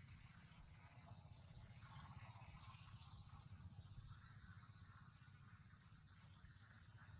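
Steady high-pitched insect drone, over a low rumble.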